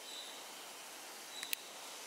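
Quiet, steady outdoor ambience with a bird's short high chirps: a brief one at the start and a sharp one about one and a half seconds in.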